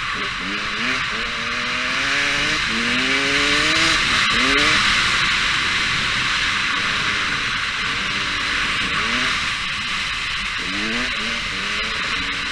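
Motocross bike engine revving up in repeated rising sweeps as it accelerates through the gears, over a steady rushing hiss. It eases off in the middle and picks up again near the end.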